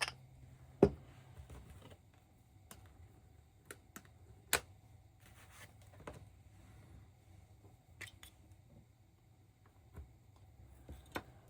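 Scattered small clicks and taps of nail-stamping tools and polish bottles being handled on a tabletop, about ten in all, the loudest about a second in.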